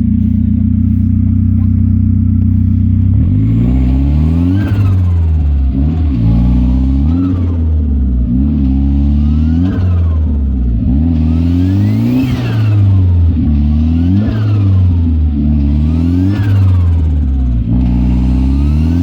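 Turbocharged car engine idling, then revved about seven times in quick succession, each rev rising and falling. A turbo whistle climbs with each rev, and the turbo flutters when the throttle is let off.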